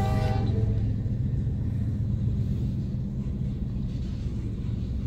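A freight locomotive's horn cuts off about half a second in, leaving the steady low rumble of covered hopper cars rolling past, heard from inside a car, slowly fading.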